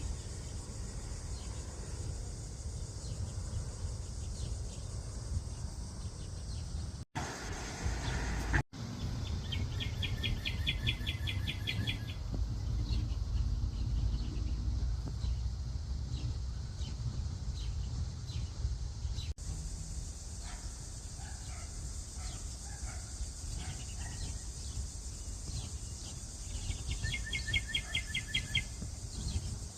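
Outdoor ambience with a steady low rumble. A songbird gives a rapid trill of evenly repeated high notes twice, about ten seconds in and again near the end, with faint scattered chirps between. The sound drops out briefly twice in the first third.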